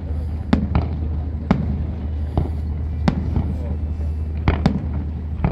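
Fireworks going off: a string of sharp bangs at irregular intervals, about eight of them, over a steady low hum.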